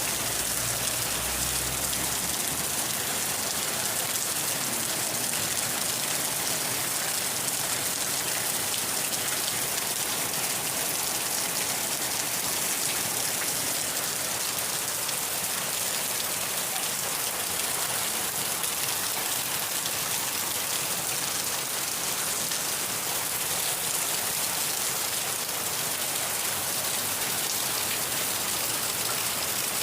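Steady rain falling and pattering on a surface, an even hiss that neither builds nor fades.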